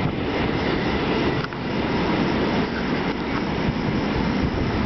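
Steady rushing rumble of a freight train going through the station, dipping briefly about a second and a half in.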